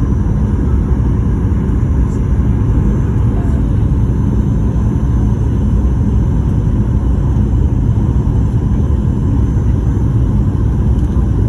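Steady low rumble of a Boeing 737-800's CFM56 jet engines and rushing air, heard from inside the passenger cabin on approach, with a faint steady hum under it.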